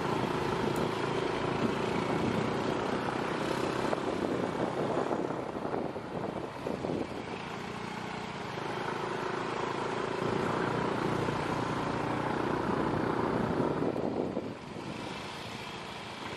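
Small motorcycle engine running steadily at low speed over a rough, stony road, mixed with road and wind noise. It eases off briefly about a third of the way in and again near the end.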